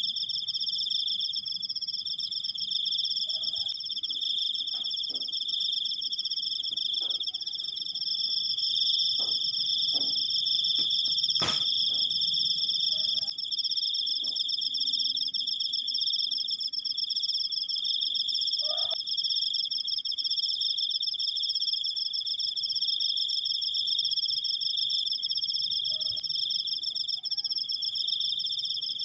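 Crickets giving a long, unbroken, high-pitched trill at two steady pitches, with a single sharp click about halfway through.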